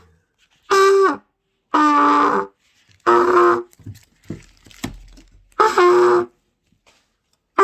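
Trumpet blown in four short separate notes, each under a second, the second one lower than the others, with faint clicks between them.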